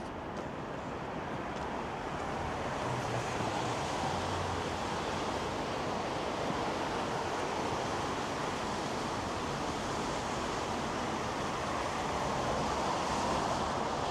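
Steady rushing noise of city traffic passing along a wide, multi-lane avenue, swelling slightly a couple of seconds in.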